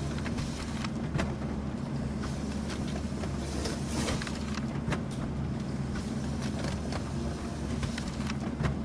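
Office printer running, a steady low mechanical hum with irregular clicks and ticks as paper feeds through.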